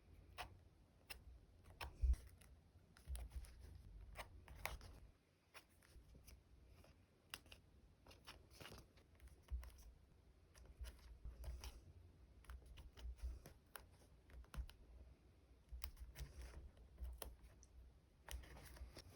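Quiet handling of stickers, paper and plastic sleeves at a desk: scattered light taps, small clicks and short rustles, with soft thumps on the tabletop.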